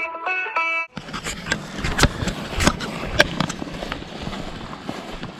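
Banjo music that cuts off about a second in, followed by footsteps moving through brush and undergrowth, with rustling and scattered sharp snaps and knocks.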